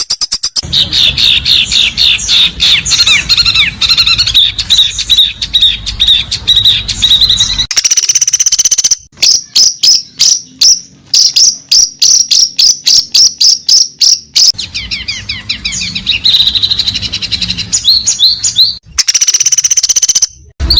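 Recorded songbird song played as bird-training material: loud, fast runs of sharp repeated chirps and trills. It is cut into spliced segments that switch abruptly several times.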